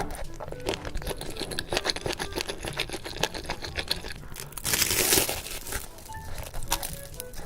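Close-up crinkling and crackling of food packaging being handled, with a louder rustle about five seconds in.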